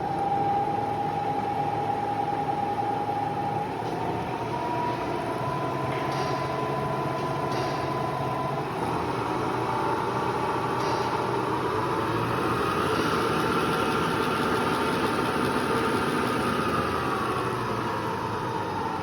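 Clausing Model 2277 drill press running under power, its two-speed motor and drive giving a steady whine. The whine steps up in pitch about four seconds in, climbs further from about nine to thirteen seconds, holds, then falls near the end: the spindle speed being raised and then lowered again.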